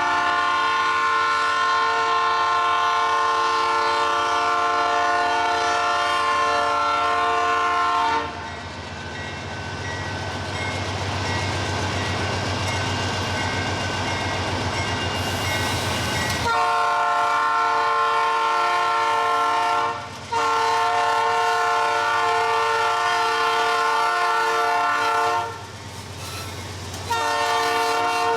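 Freight locomotive's multi-tone air horn sounding long blasts: one of about eight seconds, then after several seconds of train rumble and rolling noise, two more long blasts with a brief break between them, and another starting near the end.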